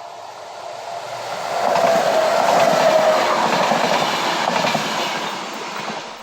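S-Bahn train passing at speed, swelling to a peak about two seconds in, holding loud for a few seconds and fading away near the end.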